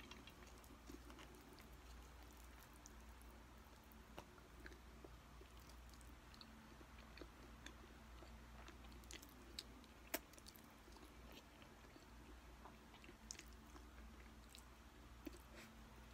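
Faint sounds of a person eating spaghetti with a plastic fork: soft chewing and mouth sounds, broken by a few small sharp clicks.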